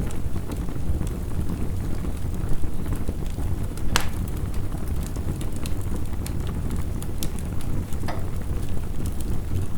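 Wood fire crackling with scattered sharp pops, a louder pop about four seconds in, over a steady low rumble of heavy rain.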